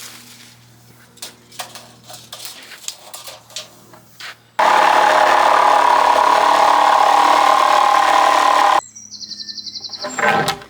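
Woodworking power tool running for about four seconds, starting and stopping abruptly, cutting or machining timber boards. Before it come light knocks and clicks of boards being handled, and near the end a brief fast rattle and a few knocks.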